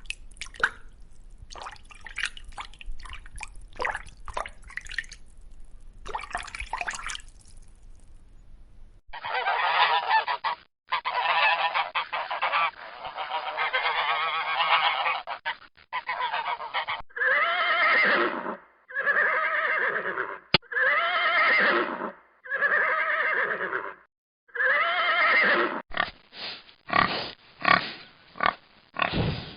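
Geese honking: a long series of loud, repeated honks that starts about a third of the way in and turns into short, quick calls near the end. Before the honking there are fainter scattered clicks over a low hum.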